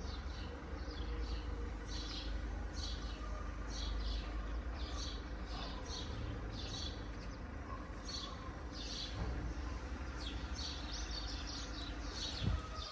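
Small birds chirping over and over in short high notes, about two a second, over a steady low rumble, with a brief thump near the end.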